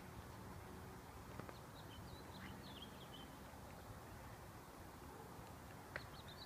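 Near silence with faint bird chirps, a quick run of short high calls from about two to three and a half seconds in, and a few soft isolated clicks.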